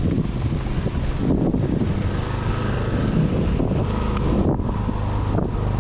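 Motorcycle riding at road speed: the engine runs steadily underneath heavy wind rushing over the microphone.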